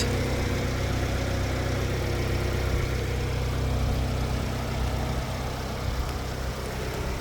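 A 2018 FIAT 500 Sport's turbocharged four-cylinder engine idling steadily.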